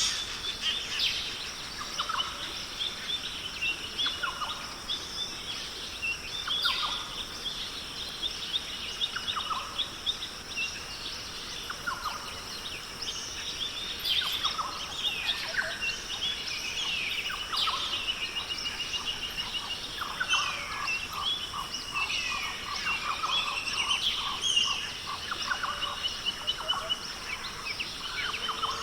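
Australian rainforest birds calling and trilling over one another in a dense, continuous chorus, over a steady high-pitched hiss.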